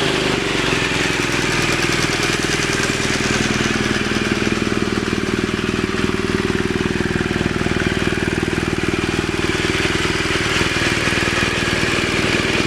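2016 BMW R 1200 R boxer-twin engine idling steadily through an Akrapovič exhaust.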